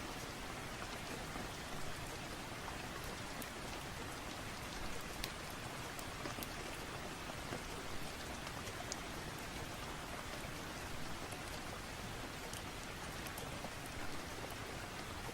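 Steady rain falling, an even hiss with a few faint scattered clicks.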